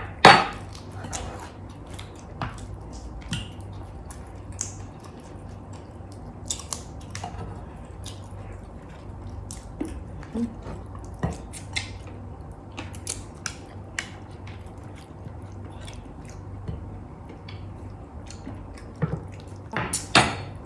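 Close-miked eating: chewing, biting and mouth smacks, with scattered short clicks of utensils on plates, over a faint steady hum.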